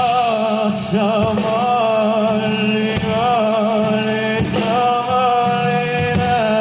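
Live ballad performance: a singer holds long, wavering notes over a band accompaniment.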